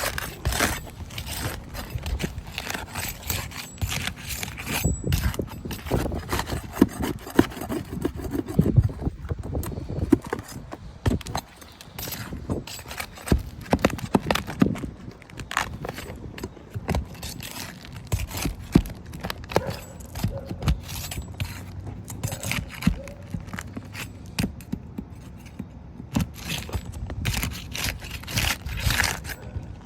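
Irregular clicks, knocks and scrapes of hands handling and working on a small object during a repair.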